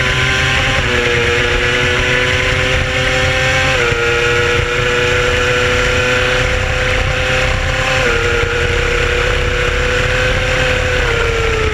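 Race motorcycle engine held at high, steady revs at speed, with heavy wind rush over the microphone. The engine pitch shifts in small steps a few times and drops away near the end.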